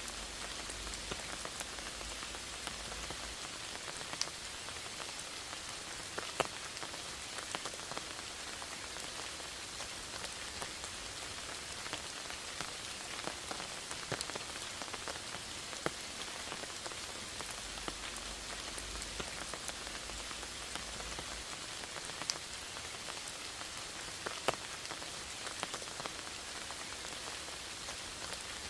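Steady rain pattering in a forest, with scattered single drops landing close by and a few sharper louder taps among them.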